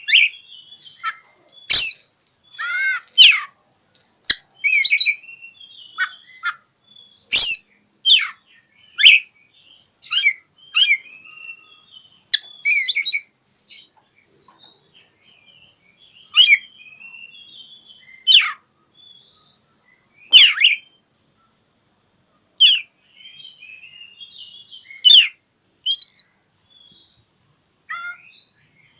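Oriental magpie-robin (kacer) singing a territorial song aimed at a rival: loud, sharp whistled notes and short scratchy phrases in bursts every second or two, with brief pauses between.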